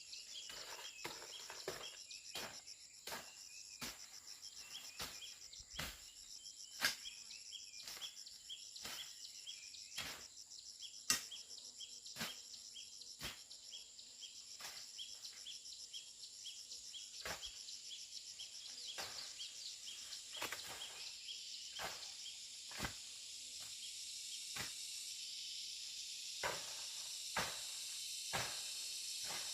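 Insects, crickets or cicadas, singing steadily in a high pulsing drone. Sharp knocks or taps come irregularly about once a second throughout.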